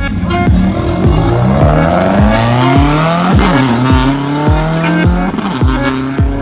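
A car engine revving up, its pitch rising for a couple of seconds and then holding, over music with deep bass hits falling in pitch about twice a second.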